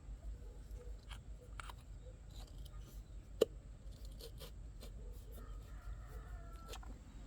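Scattered light clicks and taps of hand tools and parts being handled, with one sharper click about three and a half seconds in, over a low steady hum.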